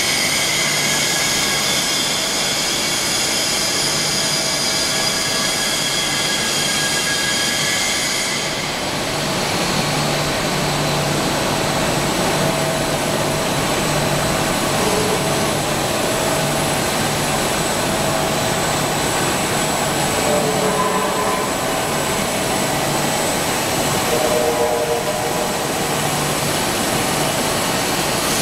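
Industrial fabric-washing machinery for rolled cloth running: a steady mechanical hum and hiss with a few constant whining tones. About a third of the way in, the high hiss drops away and the machine noise continues.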